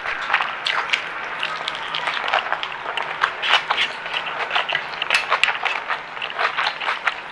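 Close-miked chewing of a meal of rice with crispy fried vegetables: a rapid, irregular run of small crunches and wet mouth clicks.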